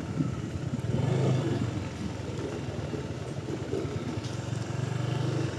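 A vehicle's engine running steadily, a little louder about a second in and again near the end.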